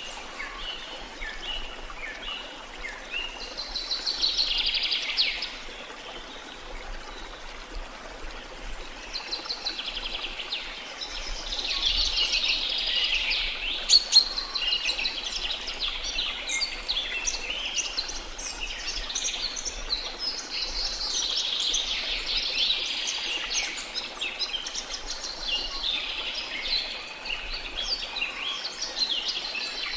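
Many birds chirping and calling over a steady rush of water from a waterfall or stream. A single sharp click stands out about halfway through.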